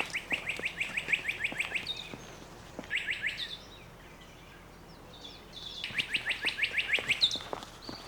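A songbird singing a rapid trill of repeated short notes, about six a second. It sings three phrases: a long one at the start, a short one about three seconds in, and a long one about six seconds in that ends on a single higher note.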